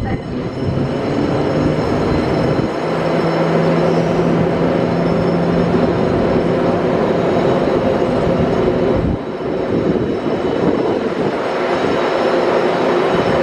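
Class 90 electric locomotive pulling a passenger train away, with the rumble of the train and steady tones from the locomotive's electrics.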